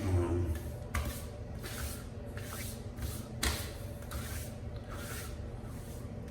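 Aftershave splash being applied by hand: a run of soft pats and rubbing noises with a few sharp knocks, over a steady low hum.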